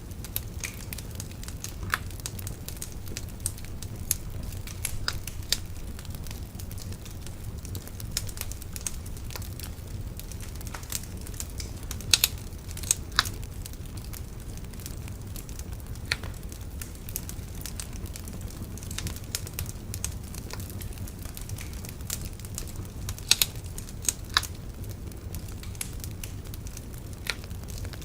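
Wood bonfire burning with a steady low rumble of flames and scattered sharp crackles and pops, a few louder pops in quick pairs.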